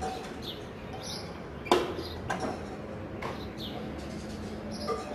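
A small bird chirping: short high calls, each falling in pitch, repeated every half second to a second. A sharp knock about 1.7 s in is the loudest sound, with lighter knocks after it.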